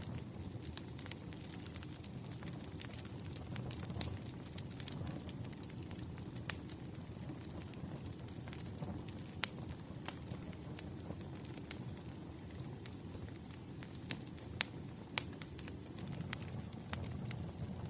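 Burning firewood crackling: a steady low rumble of flames with frequent sharp pops and snaps, a few of them louder.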